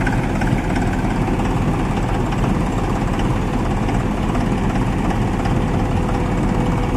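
Tractor's diesel engine running steadily at a low, even speed.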